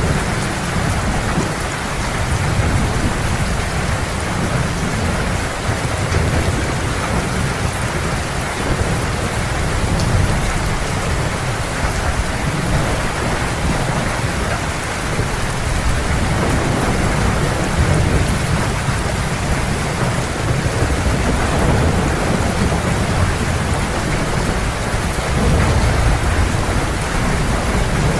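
Heavy, steady rain with a deep, continuous thunder rumble underneath that swells and fades.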